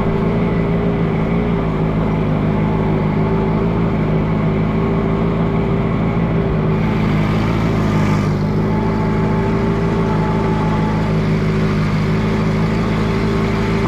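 Allis Chalmers G tractor's small four-cylinder gasoline engine running steadily under way, with an even, unchanging note. The owner thinks stale gas may have gummed up its carburetor.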